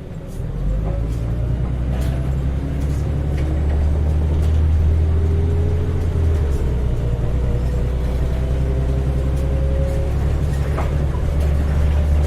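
Heuliez GX317 LPG city bus engine pulling away and accelerating, heard from inside the bus. It is a strong low drone that swells about half a second in, with a faint whine slowly rising in pitch as the bus gathers speed.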